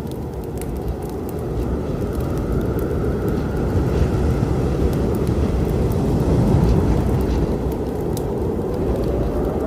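Deep storm rumble, thunder and wind, rising in level over the first couple of seconds, with sparse crackles from a wood fire.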